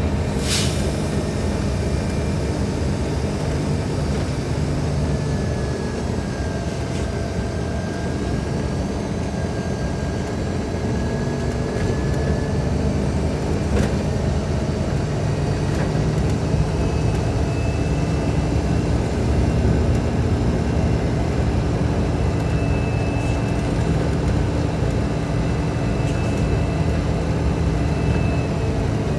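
Scania K310IB bus engine running steadily with a low drone. A faint high whine comes and goes, and there is one sharp click just after the start.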